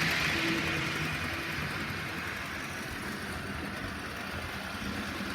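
Train going by: steady rail noise and rumble that fades over the first two seconds, then carries on more quietly.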